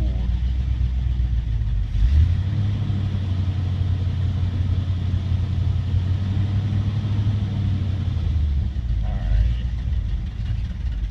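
1969 GMC dump truck engine running rough on a 14-degree cold start, struggling to stay running. Its low drone steps up about two seconds in and changes again near the end.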